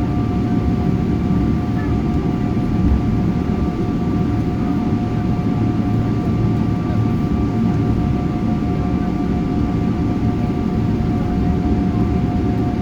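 Steady airliner cabin noise on the ground before takeoff: a dense low rumble with two steady whining tones over it.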